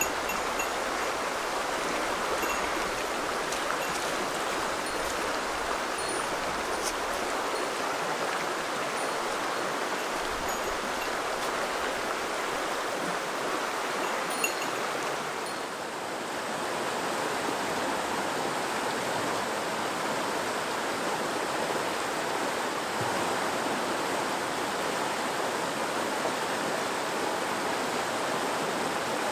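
Clear mountain river of snowmelt water flowing in a steady, even rush; the sound dips briefly about halfway through.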